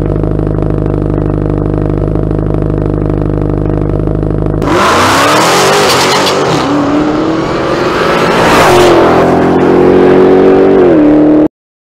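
Dodge Challenger SRT Demon's supercharged 6.2-litre Hemi V8 idling steadily, then launching hard about five seconds in: a sudden loud blast of engine and exhaust noise, the engine note rising in pitch as the car accelerates away. The sound cuts off suddenly near the end.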